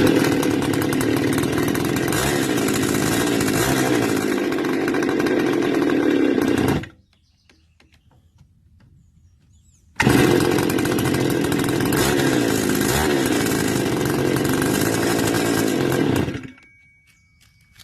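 Stihl FS280 brush cutter's two-stroke engine running at speed, then cutting out about seven seconds in; it starts again about three seconds later, runs for some six seconds and dies again. It will not stay running when cold.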